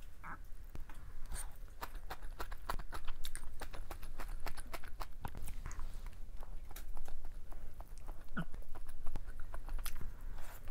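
Close-miked eating sounds: chewing with many quick wet mouth clicks and smacks while eating mala xiang guo noodles.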